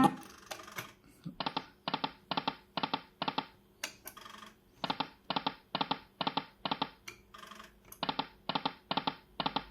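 Timber Wolf poker machine's short electronic clicks, about three a second, in three runs of six or seven with brief pauses between.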